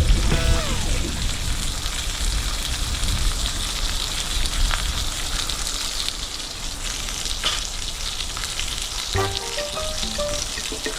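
Steady hissing noise with a brief falling tone near the start. Background music with plucked notes comes in about nine seconds in.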